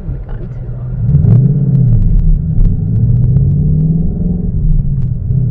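Ford Mustang GT's 5.0 Coyote V8 heard from inside the cabin while driving: its note gets louder and rises in pitch about a second in, then runs on at a steady drone.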